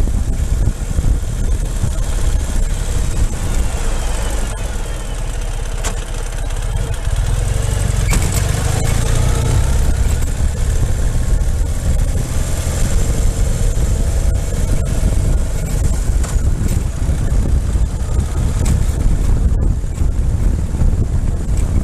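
Ural motorcycle engine running under way, with wind and road rumble, the low rumble filling out from about eight seconds in.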